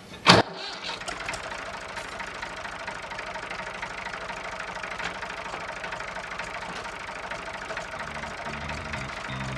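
Massey Ferguson 35 tractor engine starting with one sharp burst, then running at a steady idle. Background music comes in near the end.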